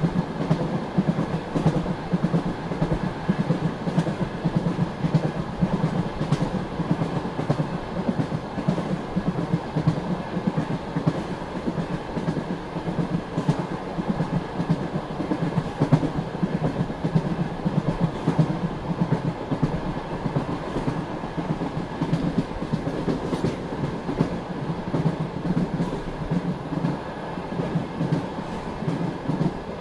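Passenger train running at speed: the carriage wheels clatter and knock over the rails over a steady rumble.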